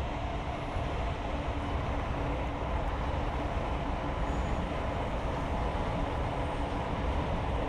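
A train running past: a steady rumble of wheels on rails, growing slightly louder.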